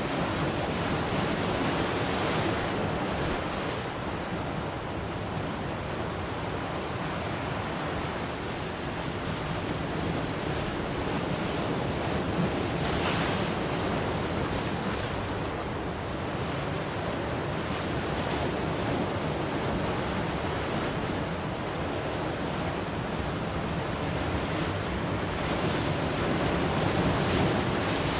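Ocean waves breaking and washing on a shore, a continuous surf rush that swells and eases, with one brighter hiss about halfway through.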